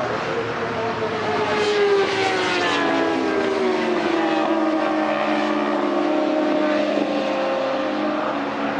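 Racing superbike engines running at high revs, a steady drone whose pitch slowly falls.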